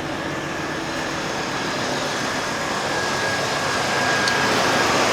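1996 Impala SS's LT1 V8 idling steadily, a smooth even hum with a faint thin whine over it, growing gradually louder.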